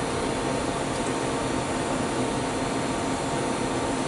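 Steady rushing machine noise in a workshop, even throughout, with a faint steady whine over it and no separate knocks or clicks.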